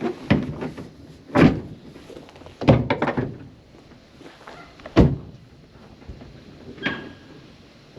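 A series of hard knocks and thumps a second or two apart: one about a second and a half in, a quick cluster near three seconds, a sharp one at five seconds and a lighter one near seven.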